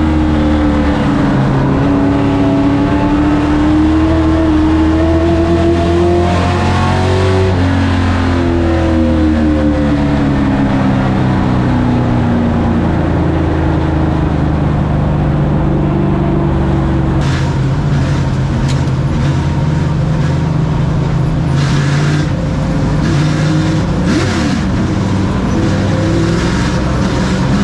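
Race truck engine running at racing speed, its pitch rising and falling again and again as the revs climb and drop. In the second half, several short sharp knocks or rattles cut through the engine sound.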